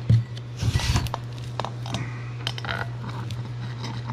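Clutch parts being handled on a workbench: a knock at the start, a short scraping rush just under a second in, then scattered light clicks and taps, over a steady low hum.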